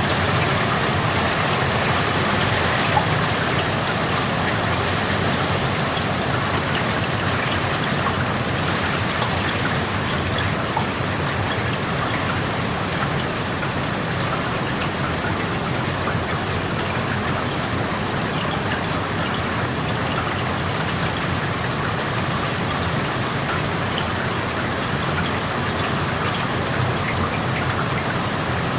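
Steady rain falling, with many small drops pattering on nearby surfaces and one sharper drop tick about three seconds in.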